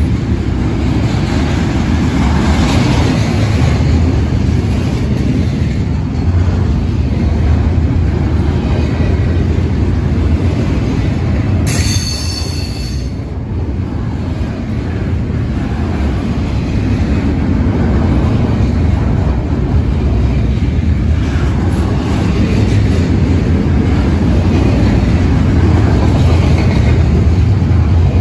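Double-stack intermodal well cars of a freight train rolling past, a steady loud rumble of steel wheels on rail. A brief high squeal cuts in about twelve seconds in.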